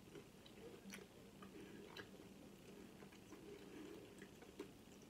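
Near silence: faint chewing of chicken taquitos, with a few soft, scattered mouth clicks over a low, steady hum.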